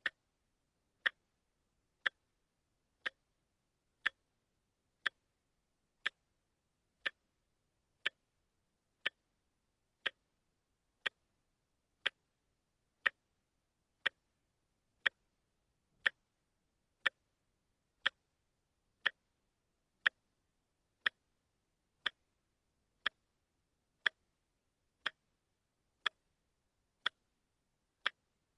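Watch ticking steadily, one short sharp tick every second.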